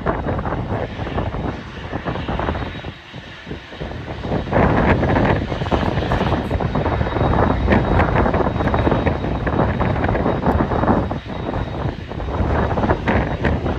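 Airliner engine noise, rising strongly about four and a half seconds in, mixed with heavy wind buffeting on the microphone.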